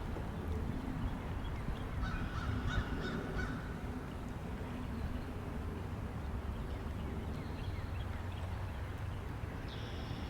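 Steady low wind rumble with birds calling: a burst of calls about two seconds in lasting over a second, and another short call near the end.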